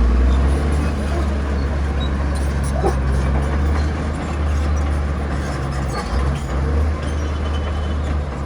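Heavy diesel engine of earthmoving machinery running steadily with a deep, loud rumble, with a few faint ticks over it a couple of seconds in.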